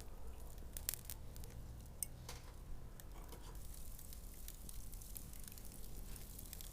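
Faint, irregular clicks and handling noise of raw meat and chicken being threaded onto skewers.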